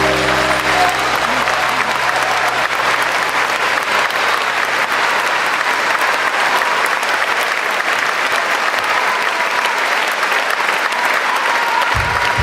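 Concert audience applauding steadily in a large hall, with the band's last held chord dying away in the first seconds.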